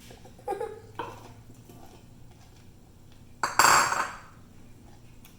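Chopped bell pepper being tipped into a cooking vessel: a couple of small knocks, then a brief clatter of pieces and dish noise about three and a half seconds in.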